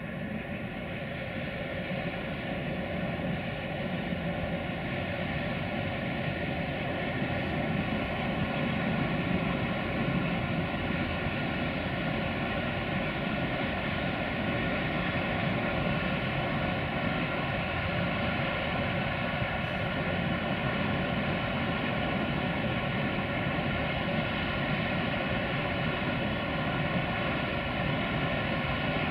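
Distant freight train hauled by an LE5100 (060-EA) electric locomotive rolling steadily along a curve: a continuous rumble of the wagons with several steady tones over it. It grows louder over the first ten seconds, then holds.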